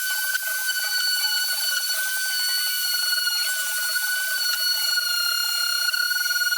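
A small power tool running steadily with a high whine that wavers slightly in pitch, over a rattling buzz.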